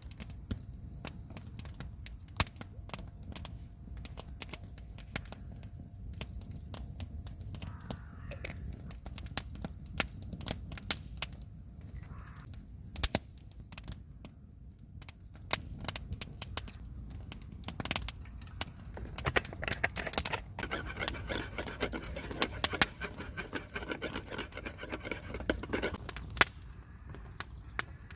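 Wood fire crackling, with irregular sharp pops over a low steady rumble. The pops and scratchy noise grow denser for several seconds in the last third.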